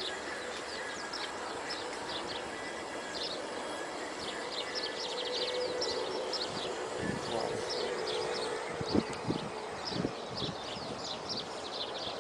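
Small birds chirping rapidly with high, short calls, with a few dull low thumps in the second half.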